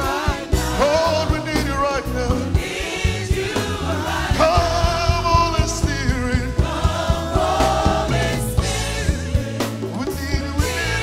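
Live gospel worship music: singers with a band, drums keeping a steady beat.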